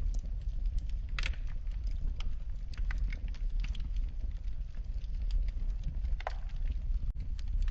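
Wood fire burning in a fireplace, crackling with frequent irregular small pops over a low steady rumble. Louder snaps come about a second in and again a little after six seconds.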